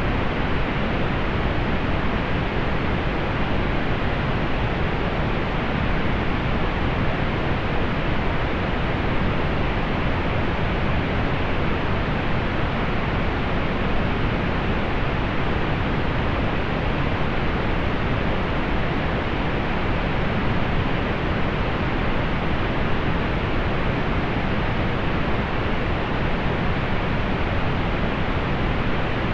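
Steady pink noise: an even, unchanging hiss with most of its weight in the lows and a soft top that fades out above the upper mids.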